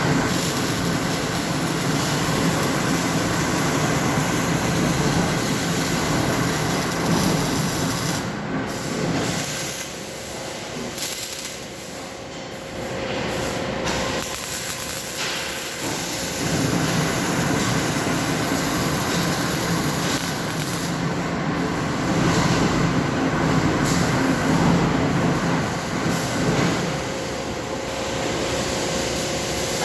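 Steady mechanical noise of a muffler welding line, a dense rumble and hiss that eases off for a few seconds around the middle.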